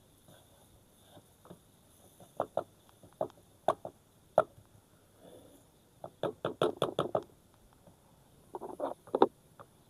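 A series of sharp knocks and taps: single ones in the first half, then a quick run of about eight in a second just past the middle, and a short cluster near the end.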